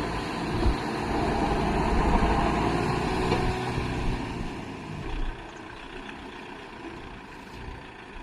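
Kubota MU5502 4WD tractor's diesel engine running, louder for about the first five seconds, then dropping off.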